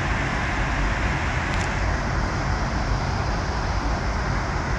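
Steady roar of water pouring out of a dam's outlet and crashing below, an even rushing noise with no break.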